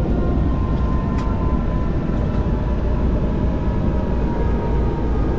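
Helicopter in flight, heard from inside the cabin: a steady, dense rumble of turbine engine and rotor, with a faint steady whine over it.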